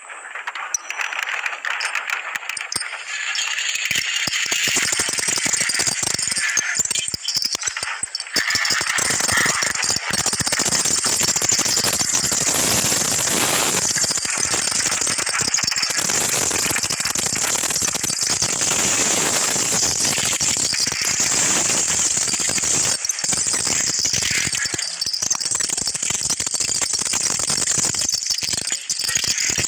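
Sonification of Earth's magnetic field made by Danish scientists from satellite data: a dense crackling, rattling noise that swells in over the first few seconds and then runs on loud.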